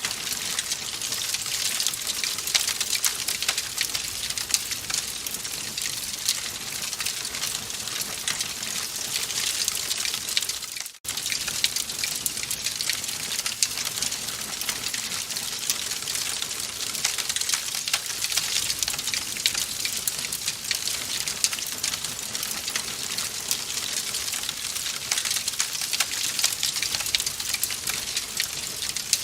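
Wood fire crackling steadily in a fireplace, a dense run of small pops and snaps. It briefly cuts out about eleven seconds in, then carries on.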